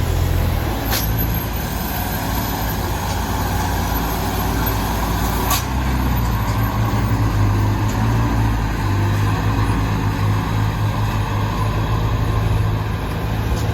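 Mitsubishi Canter light truck's diesel engine running steadily under a heavy sand load, with road noise. Two short sharp clicks, about a second in and again about five and a half seconds in.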